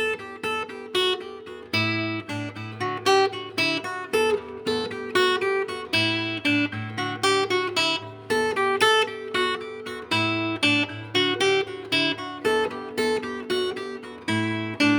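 Instrumental acoustic guitar, plucked fingerstyle: a steady run of picked melody notes over low bass notes, starting suddenly out of silence.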